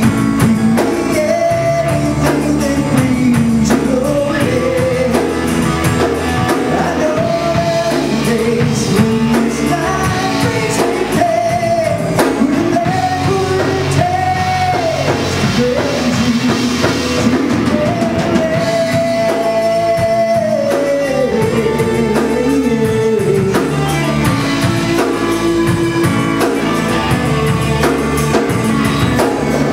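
A rock-style song with a sung lead vocal over drums and guitar, the voice holding long notes over a steady beat.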